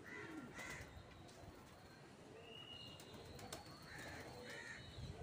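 Faint, distant bird calls: a couple of short arched calls near the start and again about four seconds in.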